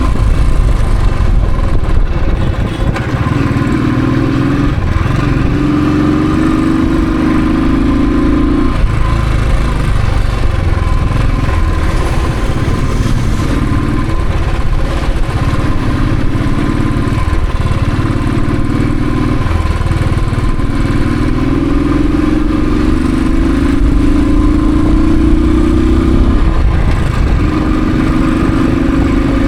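Royal Enfield Thunderbird's single-cylinder engine running under way, its note climbing over a few seconds and then dropping again several times as the rider accelerates and eases off, over a steady low rumble.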